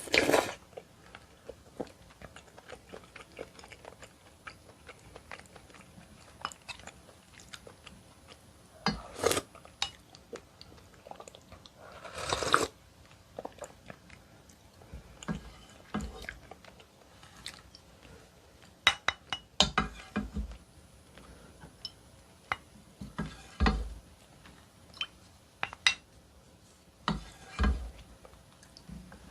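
Close-miked chewing and eating of oyster and maesaengi seaweed soup: many small wet clicks of the mouth, with about five louder, longer bursts spread through.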